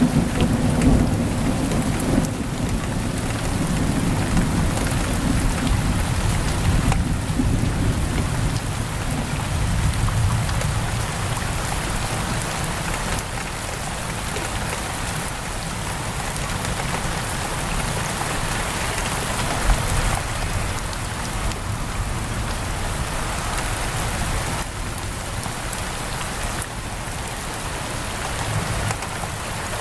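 Heavy rain pouring steadily against a window, with a low rolling rumble of thunder in the first part that gradually fades.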